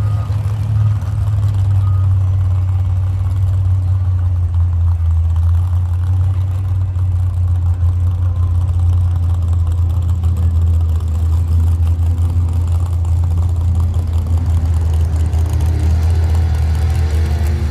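A pulling truck's engine running with a steady, deep drone; near the end, a rising engine note comes in.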